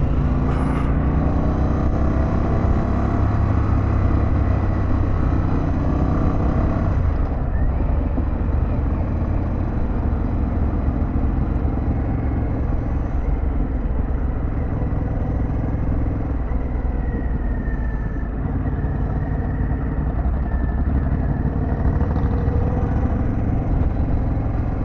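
Harley-Davidson Pan America's V-twin running under way, with steady road and wind noise. The engine note climbs over the first few seconds as the bike accelerates.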